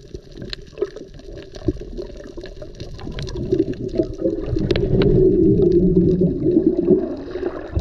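Water gurgling and bubbling, growing louder over a few seconds, with scattered small clicks, then cutting off abruptly near the end.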